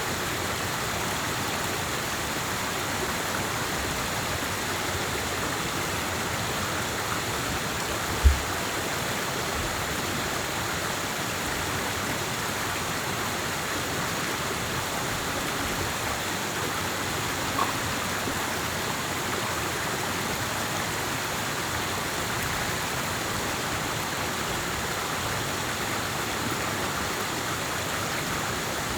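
Steady rush of water noise with no change in level, with a single low thump about eight seconds in and a faint short click a little past halfway.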